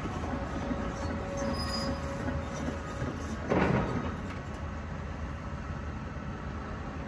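Demolition machinery's diesel engine running steadily, with a loud crash of debris or machine against rubble about three and a half seconds in.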